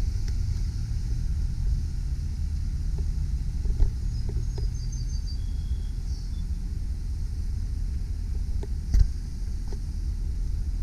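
2001 GMC Sierra 3500 HD bucket truck's engine idling with a steady low rumble. A brief knock comes about four seconds in and a sharper one near the end, with a few faint high chirps in the middle.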